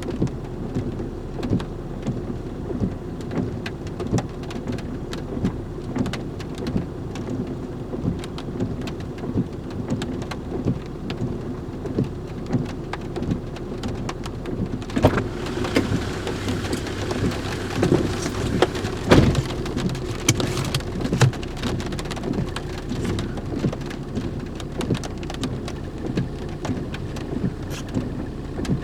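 Rain pattering, with many small irregular taps over a steady low hum. About halfway through, a rush of louder noise comes in with a few heavy thumps.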